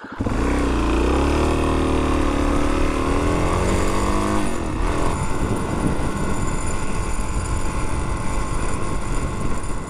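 Suzuki DR-Z400S single-cylinder dual-sport engine pulling away and accelerating, its pitch rising and falling for the first few seconds. It then settles into steady riding with road and wind noise.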